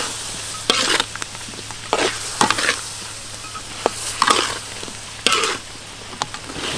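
Pork frying in chili sauce in a steel wok, sizzling steadily, while a metal spatula stirs it and scrapes against the wok in short strokes about once a second.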